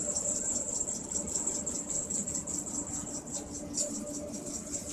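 Insects, likely crickets, chirping in a rapid, high, pulsing trill, over a steady low hum.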